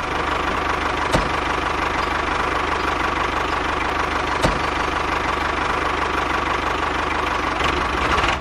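Tractor engine running steadily, with two sharp clicks, one about a second in and one a little after the middle.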